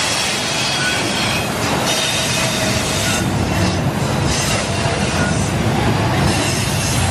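Loaded freight train of flatcars carrying eucalyptus logs rolling past close by: a steady noise of steel wheels running on the rails, with a faint high wheel squeal now and then.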